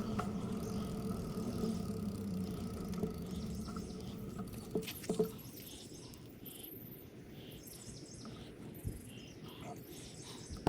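Bicycle rolling along a woodland trail with a steady hum, a few sharp clicks about five seconds in as it slows, then quieter, with short high bird chirps.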